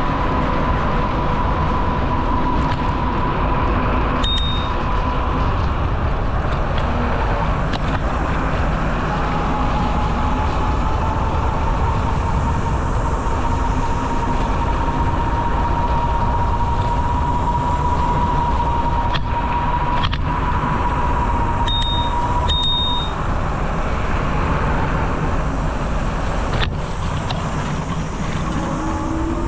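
Steady wind and rolling noise of a bicycle being ridden, with a bicycle bell dinging once about four seconds in and twice in quick succession about twenty-two seconds in.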